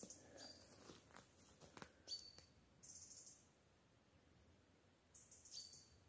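Faint, high forest bird calls: short chirps and a thin peep, a few seconds apart, from two small birds calling to each other.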